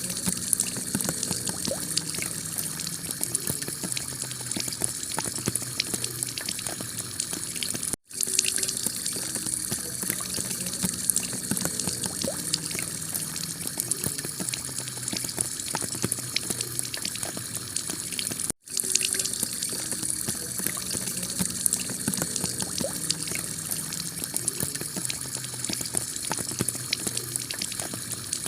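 Heavy rain pelting a clay-tiled roof: a steady dense hiss full of small drop ticks. It cuts out for a split second twice, about a third and about two-thirds of the way through.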